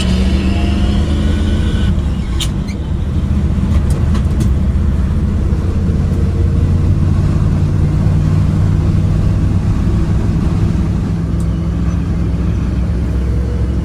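1960 Chevrolet C10's small-block 350 V8 pulling the truck along, heard from the cab with the window down. About two seconds in, the revs drop for a gear change on the 4-speed manual, with a few sharp clicks. Then the engine runs steadily, its pitch slowly rising as it builds speed.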